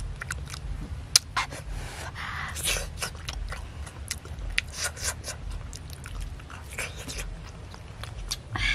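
A person chewing grilled fish open-mouthed, with irregular wet lip smacks and mouth clicks.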